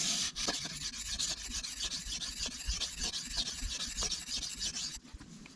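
Steel knife blade being stroked back and forth over a wet Shapton Kuromaku 1000-grit whetstone, a steady scraping hiss of repeated sharpening passes that stops about five seconds in.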